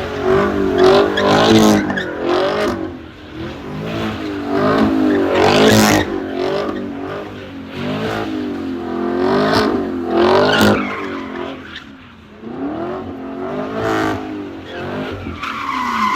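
Muscle car engine revved hard again and again, its pitch climbing and dropping over and over.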